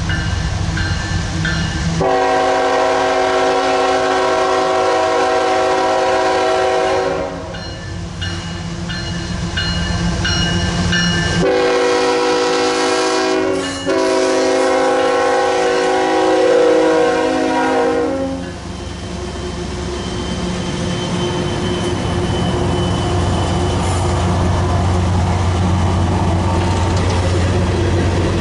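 Diesel locomotive air horn sounding a long blast, then after a few seconds a shorter blast and a long one nearly run together, over the low rumble of the locomotive's engine, which keeps running after the horn stops.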